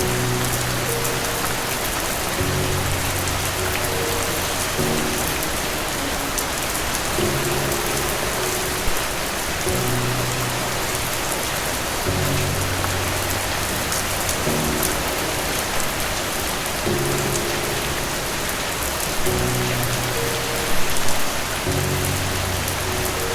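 Steady rain hiss, with slow, low sustained music chords held underneath that change every second or two.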